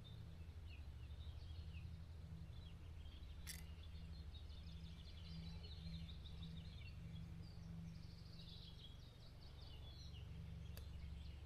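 Faint songbirds chirping and trilling over a low steady outdoor rumble, with a sharp click about three seconds in and another near the end.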